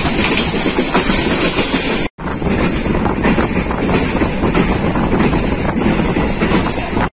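Pakistan Railways passenger train running along the line, a steady loud noise of wheels on rail heard from on board. The sound cuts out for a moment about two seconds in, then resumes the same.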